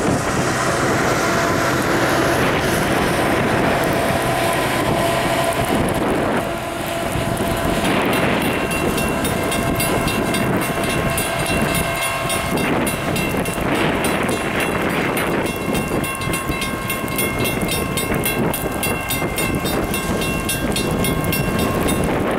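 Norfolk Southern EMD GP59 diesel locomotive running past with its train, its engine sounding steadily over wheel and rail noise. A rapid, even ticking joins about eight seconds in.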